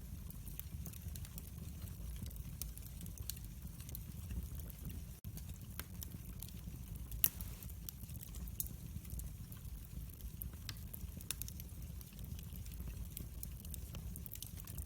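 Wood fire in a fireplace crackling: a steady low rumble of flame with frequent sharp pops and ticks, and one louder snap about seven seconds in.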